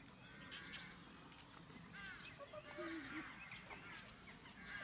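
Faint, scattered animal calls: many short high chirps and squeaks, with a few lower bending calls about halfway through.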